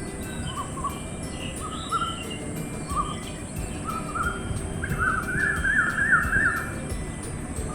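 Birds chirping: a string of short chirps, breaking into a quicker chattering run about five seconds in, over a steady high hiss.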